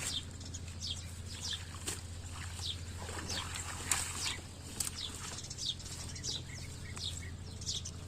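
Small birds chirping: short, high, quickly falling chirps, one or two a second, over a steady low hum.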